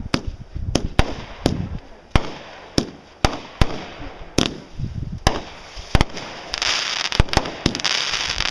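Aerial consumer fireworks going off in a rapid series of sharp bangs, some followed by a low rumbling echo. From about six and a half seconds in, a dense rush of rapid crackling joins the bangs.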